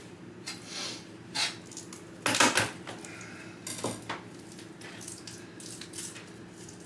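Kitchen utensils and dishes clattering: a few short knocks and clinks, the loudest cluster about two and a half seconds in and another about a second later.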